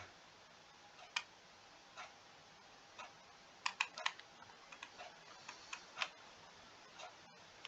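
Faint, short clicks over a low hiss: about one click a second, with a few irregular extra clicks in between.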